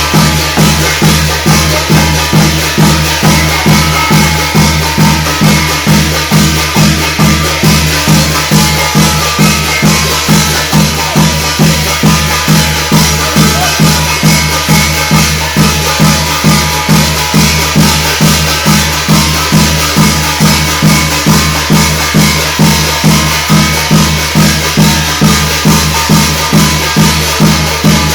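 Korean shamanic ritual (gut) music: a drum keeping an even beat of about two strokes a second under steady jangling, rattling percussion.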